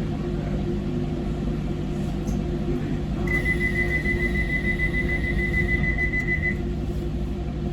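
Docklands Light Railway train humming steadily in the cab. About three seconds in, a high electronic tone with a slight fast pulse sounds for about three seconds, then stops.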